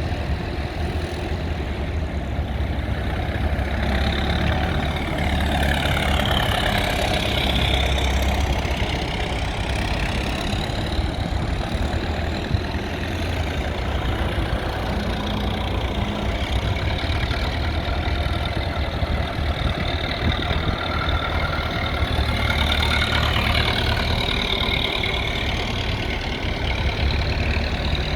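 Tractor engines running with a steady low rumble, with engine notes rising and falling twice as tractors go by.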